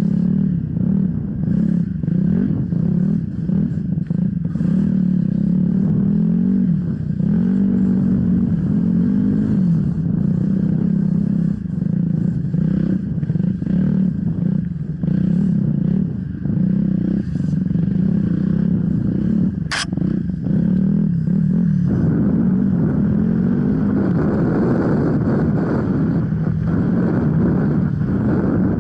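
Off-road motorcycle engine running under constantly changing throttle, its pitch rising and falling as it is ridden, with rattling and scraping. A single sharp click comes about twenty seconds in.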